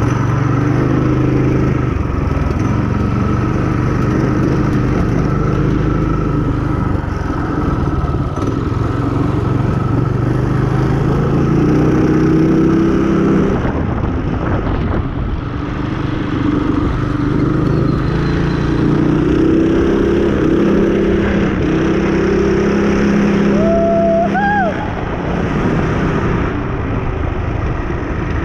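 Mossimo MB200 mini trail bike's small engine running as it is ridden, its pitch rising and falling with the throttle. A brief rising tone sounds near the end.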